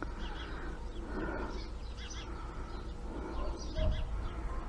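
Faint, scattered bird chirps and cheeps, with a dull low bump a little before the end.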